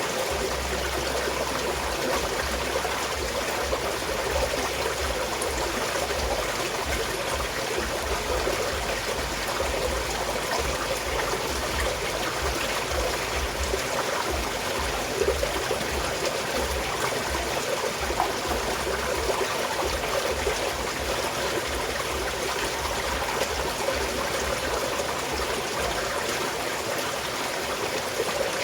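Small mountain stream flowing and trickling steadily over stones. Along with it comes an uneven low rumble.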